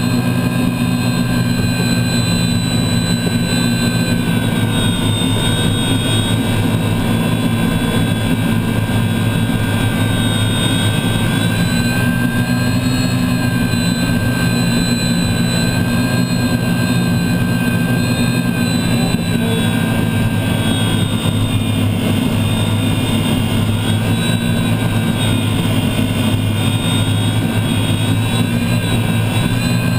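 Unlimited hydroplane's gas-turbine engine running under way, heard onboard. It makes a steady, loud whine of stacked tones that drift slightly up and down in pitch.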